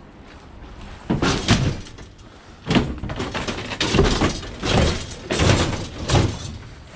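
A series of about six knocks and clunks, a second or so apart, as items in a pile of scrap are moved and handled.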